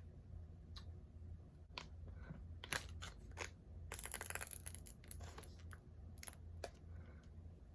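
A plastic sour cream tub being opened: scattered clicks and taps of the plastic lid, with a short tearing, crinkling burst about four seconds in as the seal is pulled off.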